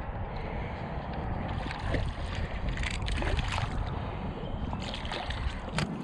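Wind rumbling on the microphone, with scattered small clicks and knocks, most of them a couple of seconds in and again near the end.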